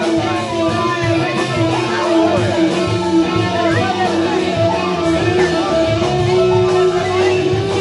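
Rock band playing an instrumental passage: electric guitar lines bending over a long held note and a steady bass and drum groove.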